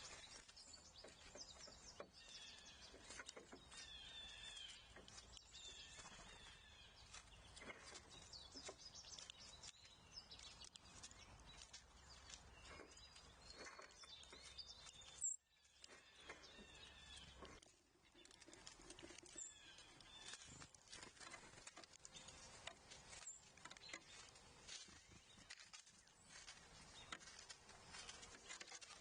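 Faint outdoor ambience with small birds chirping, the chirps most frequent in the first several seconds. About halfway through, a single sharp click is followed by a moment of dead silence.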